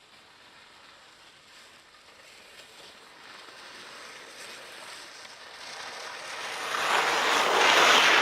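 Skis hissing as they slide over snow, building steadily from faint to loud as the skier approaches, loudest near the end.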